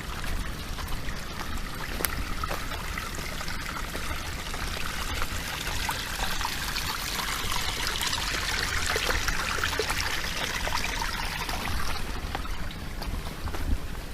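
Water trickling and splashing in a small stream, growing louder and then fading away again over the course of several seconds.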